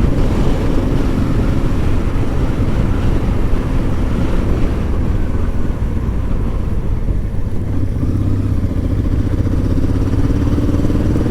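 Honda Transalp motorcycle riding at road speed: a steady engine note under heavy wind rumble on the microphone, the engine note rising slowly over the last few seconds.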